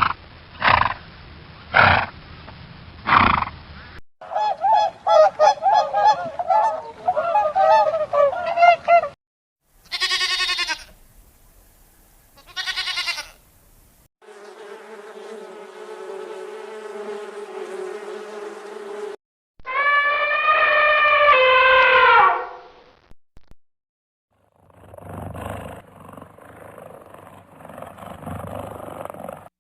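A string of different animal calls, each cut off sharply before the next. It starts with four loud sharp cries, then a stretch of rapid overlapping chattering calls. Two short calls follow, then a long steady call and a shorter loud call that dips in pitch at its end, and a rougher, noisier call near the end.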